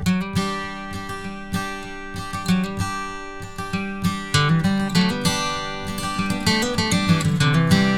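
Background music: acoustic guitar playing, plucked and strummed notes at a steady pace.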